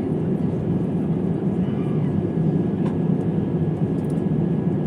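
Steady cabin noise inside an Airbus A350-900 airliner on its approach: an even, low rush of engine and airflow noise, with a few faint ticks.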